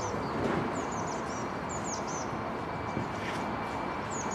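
Small birds chirping, runs of short, quick falling calls, over the steady background noise of a slow-moving engineering train of cable-drum wagons.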